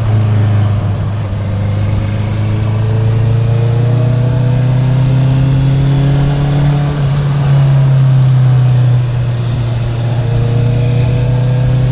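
Honda CB650R's inline-four engine running through an Akrapovic exhaust while riding. Its note climbs slowly, breaks off about seven seconds in, then climbs again near the end.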